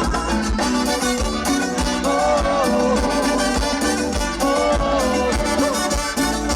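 Live dance band playing Latin dance music: a gliding melody line over a steady, pulsing bass beat.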